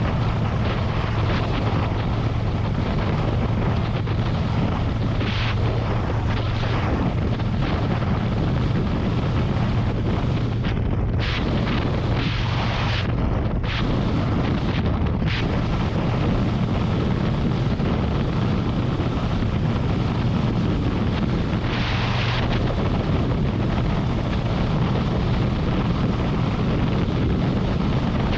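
Harley-Davidson Road Glide's V-twin engine running steadily at highway speed, under heavy wind rush on the microphone, with a few brief surges of higher hiss.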